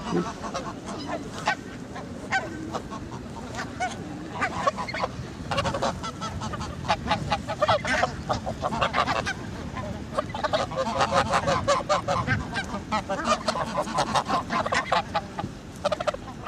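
A flock of geese honking, many short calls following one another almost without pause.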